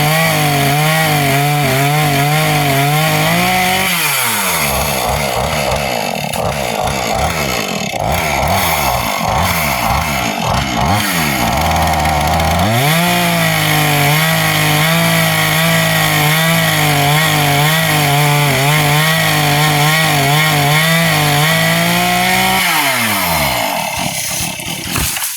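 Gas chainsaw running at high speed, then dropping to a lower, uneven speed with repeated sagging revs for several seconds. It opens up again to a steady high speed and winds down near the end.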